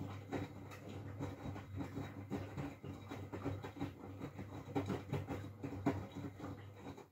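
Miele W433S front-loading washing machine in its main wash while heating to 60°C: the drum turns and wet laundry and water slosh and drop inside it, with irregular clicks and splashes over a steady low motor hum. The sound stops abruptly at the end.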